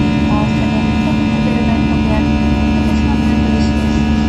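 Airbus A321-200 cabin noise in flight: a steady drone of engines and airflow with a constant hum.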